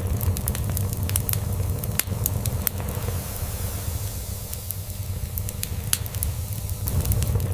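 Log fire crackling, with irregular sharp pops over a steady low purring rumble from a cat.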